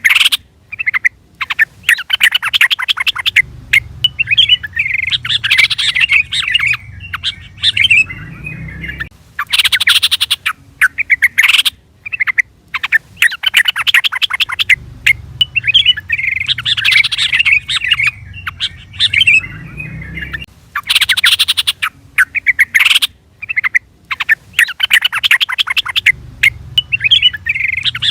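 Yellow-vented bulbul (trucukan) calling: bursts of rapid, chattering notes lasting a few seconds with short pauses between. It is a recorded call track that repeats about every 11 seconds, used to draw a response from other bulbuls.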